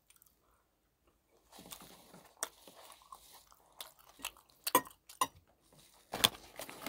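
A person biting and chewing tteokbokki and fried snacks close to the microphone, mukbang-style: crackly crunching and chewing with a few sharp clicks. It starts after about a second and a half of near silence.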